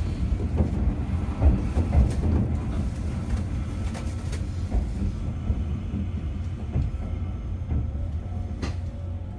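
A Mizuma Railway electric train running along the track, heard from inside the front car: a low rumble with wheel clicks over the rail joints, growing quieter and duller about halfway through.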